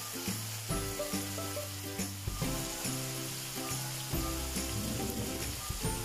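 Small kaski fish and green chillies frying in hot oil in a pan, sizzling steadily with scattered pops, over background music.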